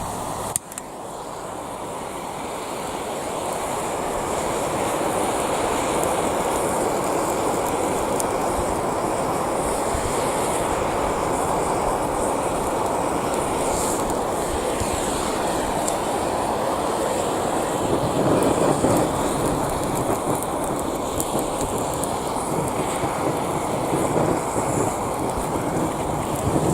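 Gas torch flame burning with a loud, steady rushing noise. A sharp click comes about half a second in, and the noise builds over the next few seconds, then holds.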